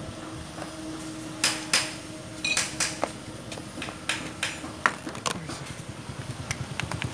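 Sharp metal knocks and clinks, about nine of them, irregularly spaced, from tools striking a welding transformer's steel frame and core as it is taken apart. A low hum runs underneath, and a low, fast pulsing engine-like sound comes in near the end.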